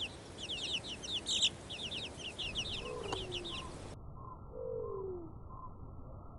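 Birds calling: quick runs of high chirps for the first few seconds, then a few lower, drawn-out calls that fall in pitch.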